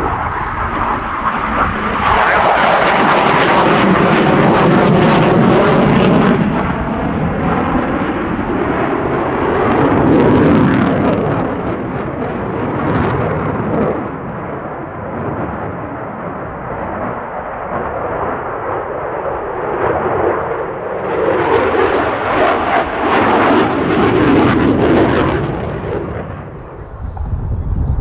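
Eurofighter Typhoon's twin EJ200 jet engines roaring through display passes. The noise swells and fades, loudest a few seconds in, again around ten seconds in, and near the end, with a ragged crackle at the loudest moments.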